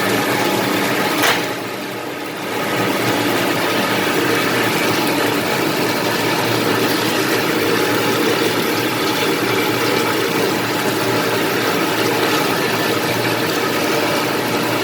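MAXIA MX-LP220 washer-peeler running steadily, its carborundum abrasive rollers peeling a load of tamarind. A single sharp click comes about a second in, and the level dips briefly before the steady run picks up again.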